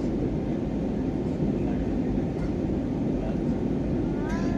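Steady airliner cabin noise: the low rumble and hiss of jet engines and airflow heard from inside the cabin. A short voice cuts in near the end.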